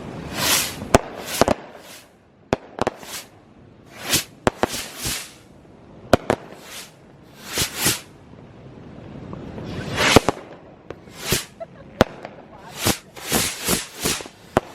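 New Year's firecrackers and fireworks going off close by in quick, irregular succession: many sharp bangs mixed with short hissing bursts, with a longer hiss building about ten seconds in.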